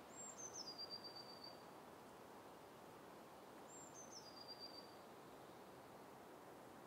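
A bird calling twice in faint outdoor quiet: each call is high and thin and slides down in steps, and the second comes about four seconds in.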